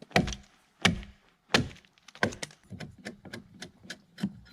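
Repeated hard strikes on wood, a tool hitting timber: four heavy blows about 0.7 s apart, then a quicker run of lighter knocks.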